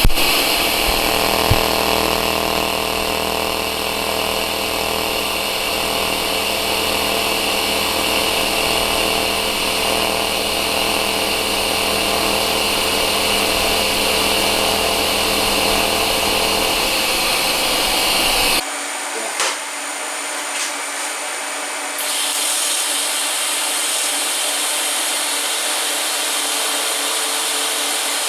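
Pulsed TIG welding arc on stainless steel pipe: a steady buzzing hum with a high hiss. About two-thirds of the way through the sound changes abruptly: the low hum drops out, a few clicks follow, and a steady high hiss goes on.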